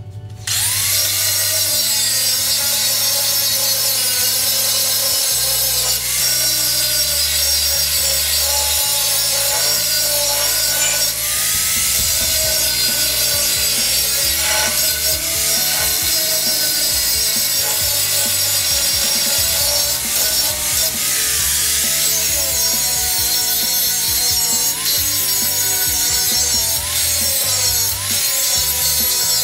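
4.5-inch angle grinder with a hard grinding disc grinding old weld off a steel auger shaft, starting about half a second in. It runs steadily under load, its pitch dipping and recovering as the disc bites into the metal.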